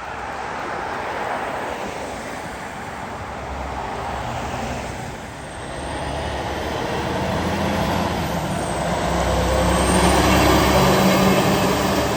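Road traffic going by, then a heavy diesel truck engine coming closer from about halfway through, its steady low drone loudest near the end.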